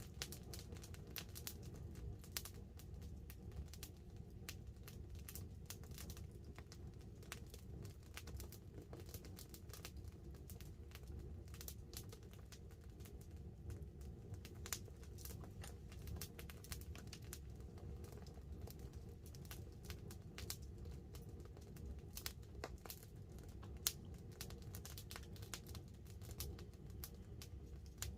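Wood campfire crackling, with many small sharp snaps and pops over a steady low rumble and one louder pop about 24 seconds in. Light rain patters on the tarp overhead.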